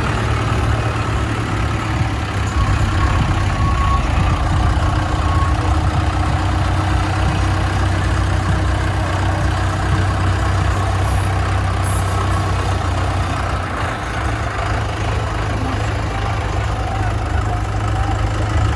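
Tractor diesel engines running steadily, a low continuous engine drone.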